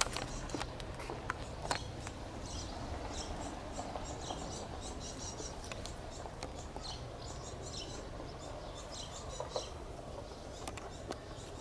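Small birds chirping in quick, scattered short calls over a steady low rumble, with a few sharp clicks in the first two seconds.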